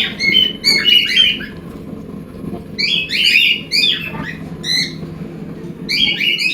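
Cockatiels chirping and squawking: rapid strings of short, high calls in three bouts with brief pauses between them.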